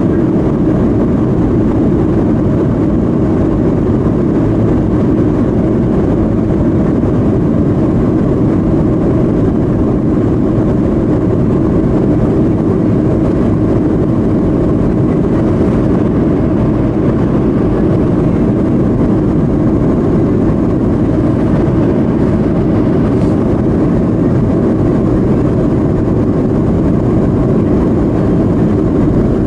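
Steady, unchanging low rush of a Boeing 737-200's Pratt & Whitney JT8D engines and airflow, as heard aboard in flight.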